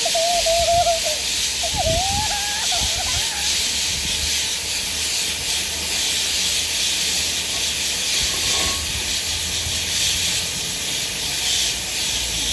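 Steam locomotive 5541 standing and hissing steadily while it takes on water. A brief wavering whistled tone sounds over the hiss during the first few seconds.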